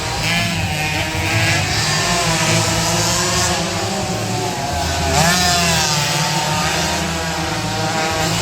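Two-stroke 116cc underbone racing motorcycle engines running at high revs, a buzzing, shifting engine note, with one sharp rise in pitch about five seconds in.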